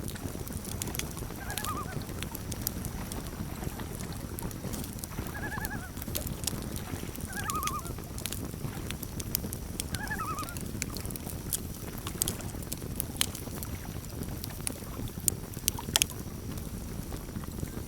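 Campfire crackling and popping over a low steady rumble, with a few sharp pops near the end. Four short wavering calls of a common loon, its tremolo, come through during the first half.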